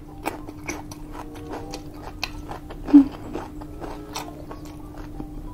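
Close-miked mouth sounds of a person chewing and crunching air-fried pork belly (liempo): a run of short wet clicks and crunches. One brief, louder, low-pitched sound comes about three seconds in, over a faint steady hum.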